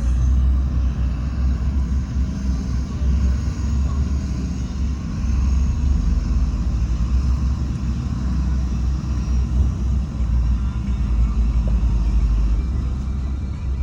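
Heavy diesel earthmoving machinery running steadily, a continuous deep engine rumble.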